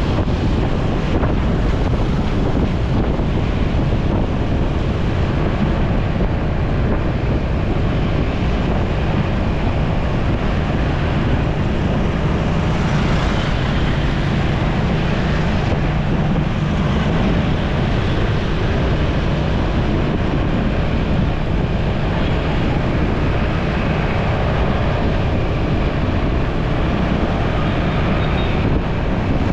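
Wind buffeting the microphone of a moving motorcycle, with the bike's engine running underneath; a loud, steady noise that changes little.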